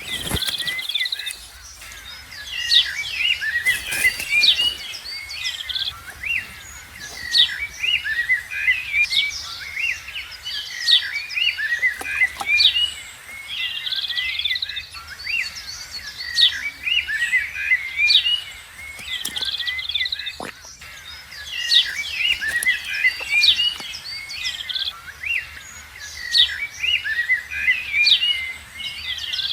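Many small birds chirping and twittering in a continuous, overlapping chorus, with a couple of faint clicks.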